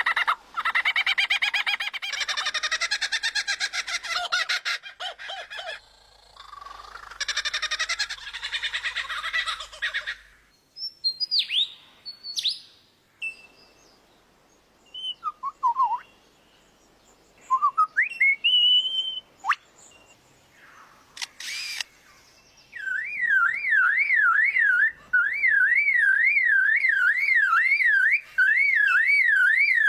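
A caged songbird singing mimicry. It starts with fast, buzzy warbling, then gives scattered whistles and chirps that slide up and down. Near the end it settles into a steady up-and-down whistle, two or three swings a second, like an alarm siren.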